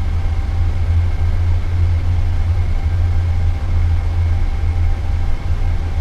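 Steady low rumble of a Boeing 787 Dreamliner flight deck during taxi, with two faint steady whines above it.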